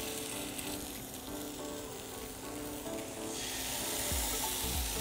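Shish tawook skewer of chicken breast and vegetables sizzling steadily as it fries in a little oil in a frying pan.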